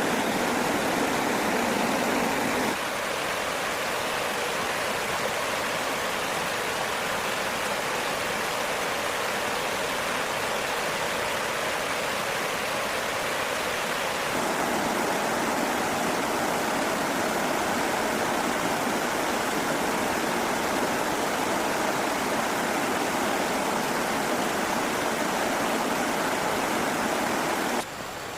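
Steady rushing of running water with no distinct events. Its tone and level shift abruptly twice, as the clips change.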